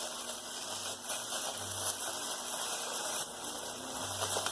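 Faint rustling and crinkling of a small plastic trash bag stuffed with cotton as it is handled, with a few light handling noises over a steady hiss.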